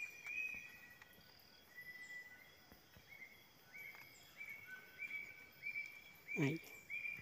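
Night-time tropical forest ambience: a repeated short chirping call, about one or two a second, over faint steady high-pitched insect drone. A brief louder noise comes about six and a half seconds in.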